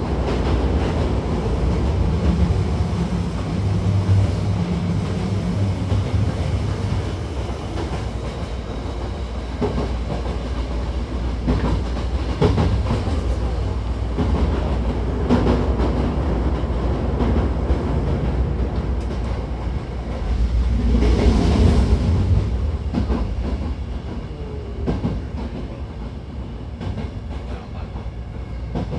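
Hankyu 1000-series electric train running, heard from inside the car by the doors: a steady low rumble of wheels on the track, with clicks from rail joints scattered through it and a low hum in the first few seconds. The running noise swells louder about three-quarters of the way through, then eases.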